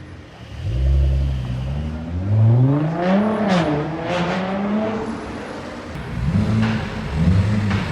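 A sports car engine revving: it climbs steadily to a high peak and falls back, with a few sharp cracks near the top, then gives several short revs in a row near the end.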